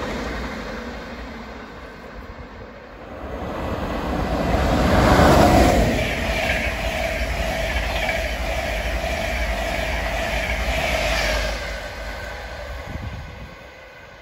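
LNER InterCity 225 express (electric locomotive-hauled Mk4 coaches) running through the station: a rush that peaks about five seconds in as the front passes, then a steady rumble with a sustained whine as the coaches go by, dying away near the end. It opens over the fading sound of a train that has just gone past.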